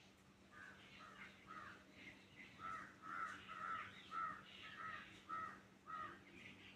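A bird calling over and over in short calls, about two a second, loudest in the middle, stopping shortly before the end.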